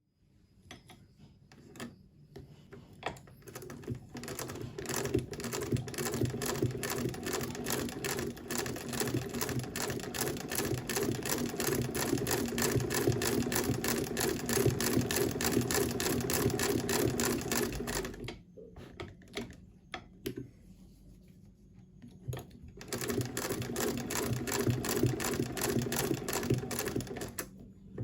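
Singer 12k fiddle-base hand-crank sewing machine stitching, its needle and shuttle clattering in a rapid, even rhythm that gathers speed over the first few seconds. It stops about two-thirds of the way through with a few scattered clicks, starts stitching again, and ends with one sharp knock.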